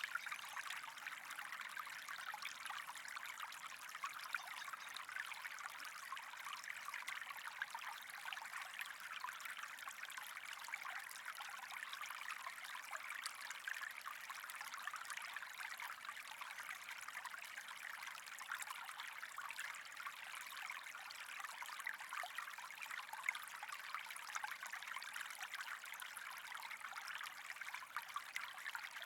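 Steady trickling, running water with a fine, even crackle.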